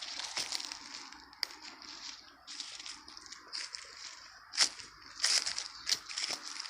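Irregular dry crackling and crunching, a run of sharp crackles like dry leaves or litter being crushed, with the loudest about two-thirds of the way in.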